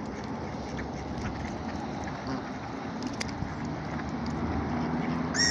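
Ducks feeding: a steady rustling, splashy noise with scattered small clicks, and a short duck call just before the end.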